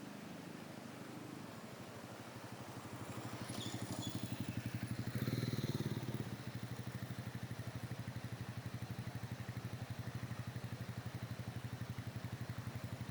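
Small petrol engine running with a fast, even firing pulse, building up over the first few seconds, loudest about five to six seconds in, then running steadily. A steady rush of river water lies underneath.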